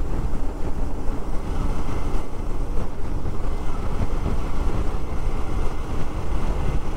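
Steady rush of wind on the microphone over a motorcycle's engine and road noise while riding.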